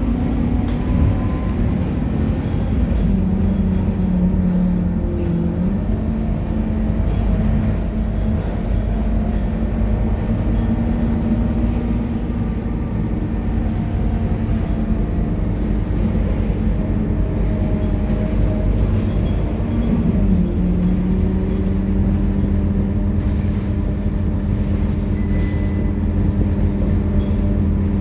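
Scania K230UB bus engine, a 9-litre five-cylinder diesel, running under way as a steady low hum, its note dipping and picking up again a couple of times as the bus changes speed. A brief high-pitched sound is heard near the end.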